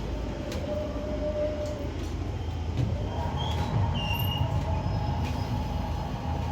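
Waterloo & City line underground train running with a steady low rumble and scattered clicks. A humming tone comes in about halfway, with a few brief high squeaks of the wheels.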